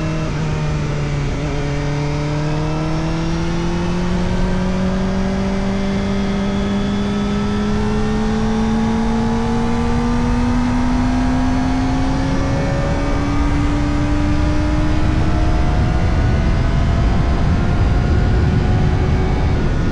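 Kawasaki Ninja ZX-4RR's 399 cc inline-four running through an Arrow Indy Race Evo titanium exhaust with the dB killer fitted, heard from on board while riding. The engine note dips briefly about a second in, then climbs slowly and steadily under light acceleration, changes again about three quarters of the way through and falls away at the very end.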